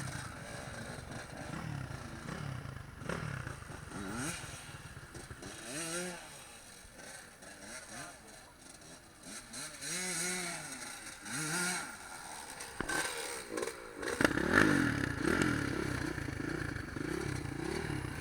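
Dirt bike engines revving and passing, their pitch rising and falling in repeated swells. The sound gets louder and busier about three quarters of the way through.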